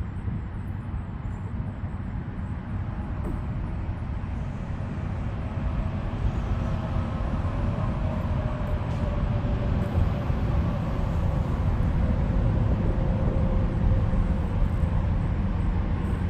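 A low, steady rumble that slowly grows louder. About five seconds in, a faint steady hum joins it.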